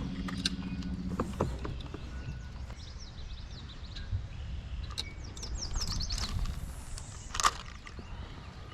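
Birds chirping over quiet open-water ambience, with a few light clicks and one louder knock near the end. A low steady hum stops about a second in.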